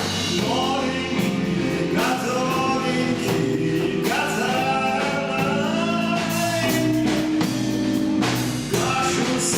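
A band playing a song live: a singer's voice over guitar and drums.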